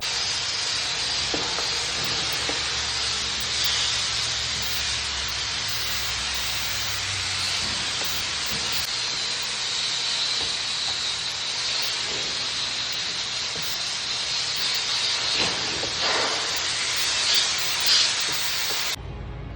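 Steady hiss of compressed air from an air tool, swelling a few times and then cutting off suddenly near the end.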